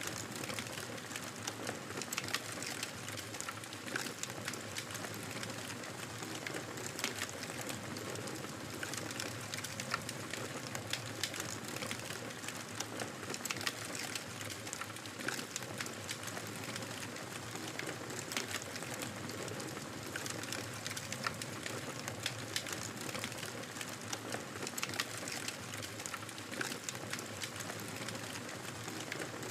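Wood fire crackling steadily in a fireplace: a soft continuous hiss with frequent small, sharp pops and snaps scattered throughout.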